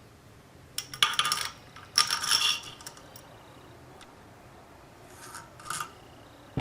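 Metal parts clinking and scraping together in two short bursts about a second and two seconds in, then a fainter pair near the end: steel lathe headstock parts being handled and fitted.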